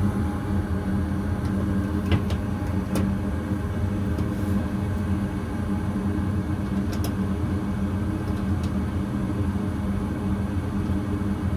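Goodman gas furnace running steadily with a low hum, its flame holding now that the flame sensor has been cleaned. A few faint ticks sound over it.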